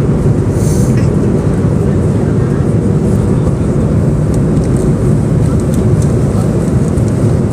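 Airliner cabin noise in flight: a steady, loud low rumble of engines and airflow heard from inside the cabin, with a brief high hiss about a second in.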